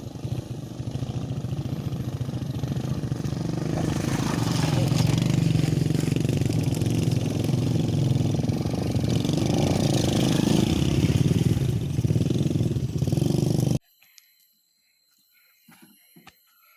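Motorcycle engine running steadily under way, with wind noise, getting louder over the first few seconds. It cuts off suddenly near the end, leaving near silence with a few faint small sounds.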